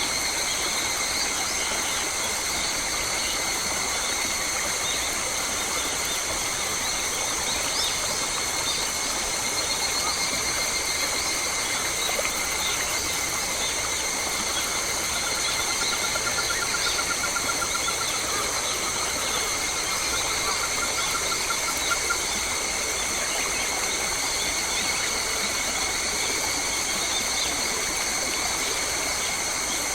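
Forest ambience: a steady high-pitched drone under scattered bird calls, with a rapid trill through the middle.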